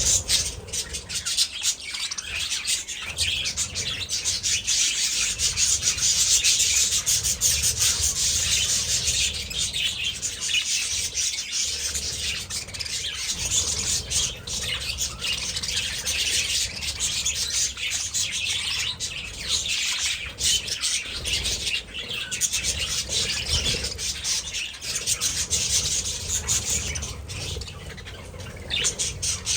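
A flock of budgerigars chattering and chirping nonstop, a dense, busy twitter.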